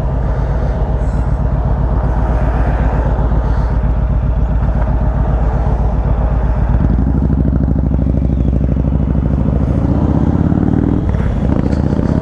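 Motorcycle engine running under way, its pitch climbing as the bike accelerates, with a brief drop near the end like a gear change before it climbs again.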